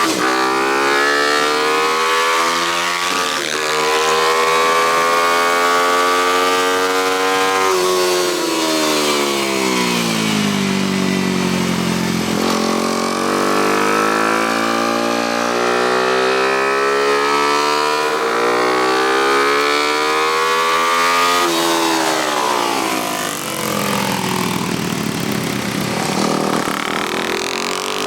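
Small single-cylinder four-stroke motorcycle engine ridden hard around a kart track. Its pitch climbs in steps through the gears, drops steeply about eight and twenty-two seconds in as it slows for corners, then climbs again.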